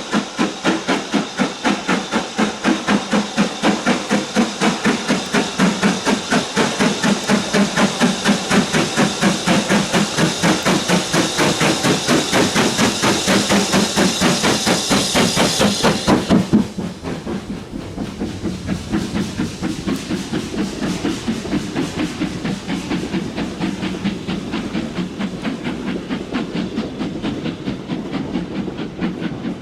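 Steam locomotive working, its exhaust beats coming fast and evenly with a loud hiss of steam over them. The hiss cuts off suddenly a little over halfway through, leaving the exhaust beats quieter.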